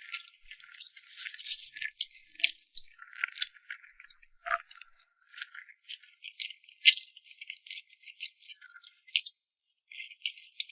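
Close-miked eating sounds from a cake mukbang: an irregular run of short clicks and crackles, with one sharper click about seven seconds in.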